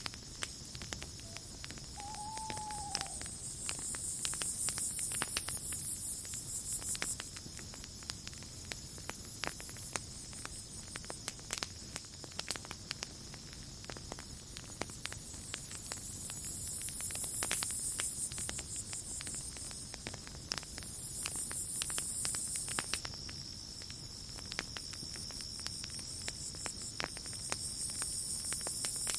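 Campfire crackling with frequent sharp pops over a steady night chorus of crickets. Their high chirring swells and fades in waves every few seconds. A single short arching bird call sounds about two seconds in.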